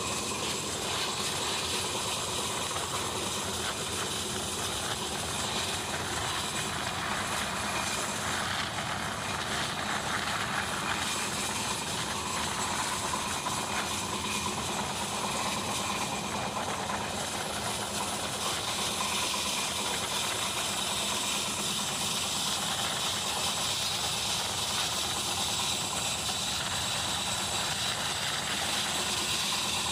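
Steady running noise of an Indian Railways express passenger train heard from an open coach window: wheels rolling on the rails and air rushing past.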